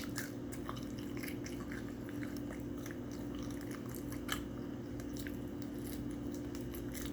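Close-miked chewing and mouth sounds of someone eating, with scattered small wet clicks and crackles over a steady low hum.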